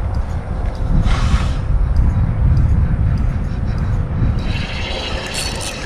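Wind buffeting the microphone in a steady low rumble, with short hissing washes of noise about a second in and again near the end.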